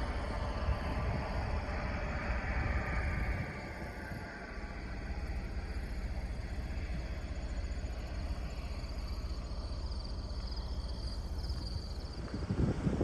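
Motor vehicle running: a steady low rumble, with a whine that falls in pitch over the first four seconds.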